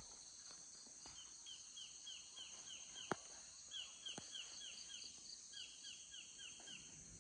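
Faint field ambience: a steady high insect drone, with a bird calling in three runs of short downward-sliding notes, about four a second. Two faint clicks come about three and four seconds in.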